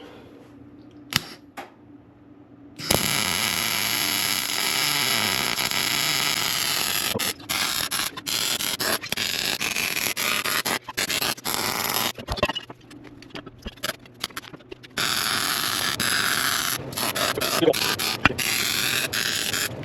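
A loud shop tool running in bursts: a long steady run starting about three seconds in, then many short on-off bursts with brief gaps, and another steady run near the end.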